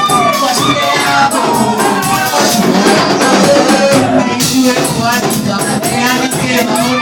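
A group of people singing together, with hand percussion keeping a steady beat.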